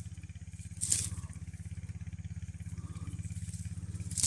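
A small engine running steadily somewhere off, a low hum with a fast, even pulse. Two short rustles come about a second in and near the end.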